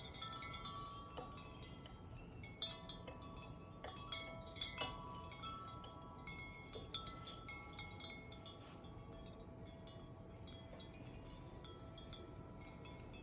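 Metal wind chimes struck over and over by gusting wind, many overlapping pitched tones ringing and decaying. The strikes are busiest in the first five seconds and thin out after. A faint steady low rush of wind lies underneath.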